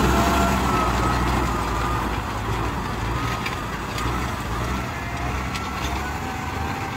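Kubota M6040 SU tractor's four-cylinder diesel engine running steadily, slowly growing quieter.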